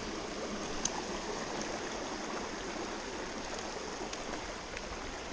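Creek water running steadily over rocks, an even rushing wash with a few faint ticks.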